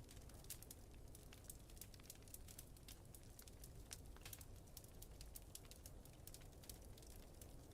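Wood fire in a fireplace crackling, with many small irregular pops and snaps over a low steady rumble.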